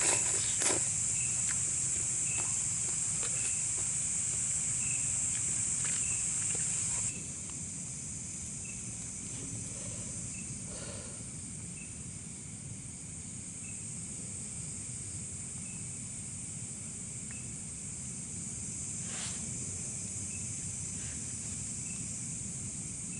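Night insect chorus: a steady high buzzing that drops off sharply about seven seconds in, over a cricket chirping regularly a little more than once a second, with a few faint clicks.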